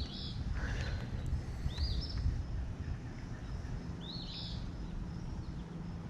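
A bird calling: a short, rising, chirped note repeated three times, about two seconds apart, over a steady low rumble.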